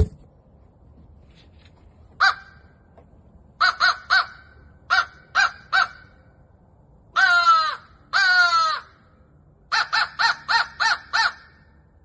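Mouth-blown Millcreek Valley Game Calls crow call sounding a series of caws in groups: a single caw, two runs of three quick caws, two longer caws that fall in pitch, then a fast run of six. A sharp click opens the series.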